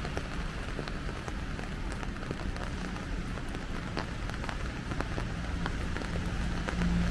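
Steady rain falling, a constant hiss with many scattered drops ticking close by, over a low steady rumble.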